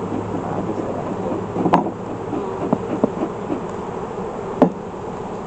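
Honeybees buzzing around an opened hive, a dense steady hum, broken by two sharp knocks, one about two seconds in and a louder one near the end.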